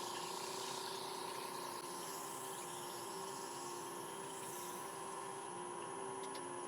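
Wood lathe running steadily at about 800 RPM, a constant motor whine over a soft hiss, as a wad of paper towel buffs microcrystalline wax on a spinning bowl.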